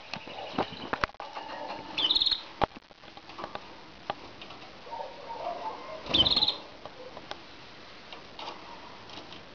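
Pet canaries calling and chirping, with two short, loud, high-pitched trilled bursts about two and six seconds in, fainter chirps between them, and scattered sharp clicks and taps.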